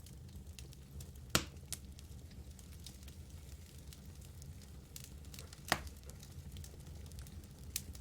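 Wood fire burning in a fireplace: a low steady rumble with scattered crackles and a few sharp pops from the logs, the loudest about one and a half seconds in and again near six seconds.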